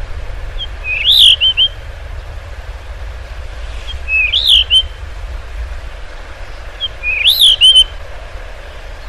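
Blue rock thrush singing three short whistled phrases about three seconds apart. Each is a quick rising-and-falling warble with a few thin high notes, over a low steady rumble.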